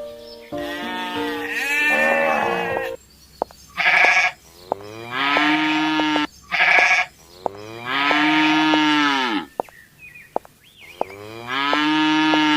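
A series of about six drawn-out farm-animal bleating calls, each rising and then falling in pitch, with two shorter, higher calls among longer, lower ones.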